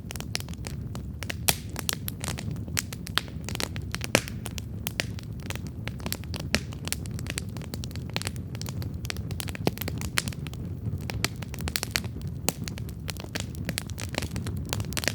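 Wood campfire crackling steadily: dense, irregular snaps and pops over the low rumble of the burning fire, with a few louder pops.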